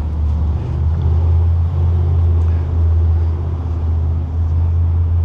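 Steady low rumble of a motor vehicle engine running close by, holding an even pitch without revving.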